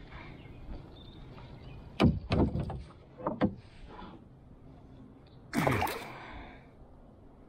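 A few knocks and bumps on a kayak, a pair about two seconds in and another pair about three and a half seconds in, then a short, louder rush of noise at about five and a half seconds.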